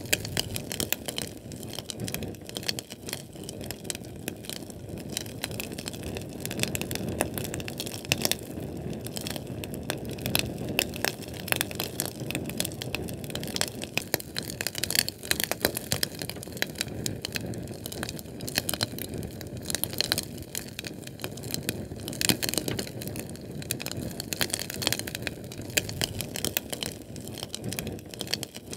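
Fire burning: a steady low rush of flame with constant small crackles and pops, a few sharper pops standing out.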